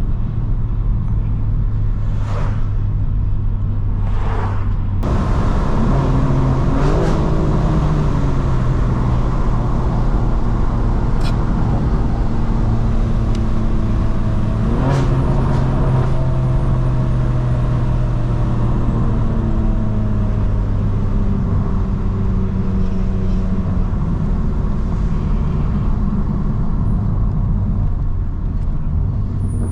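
Straight-piped BMW M4 Competition's twin-turbo inline-six engine and exhaust under way, a steady drone whose pitch slides up and down twice, about a sixth and half of the way through, as the revs change.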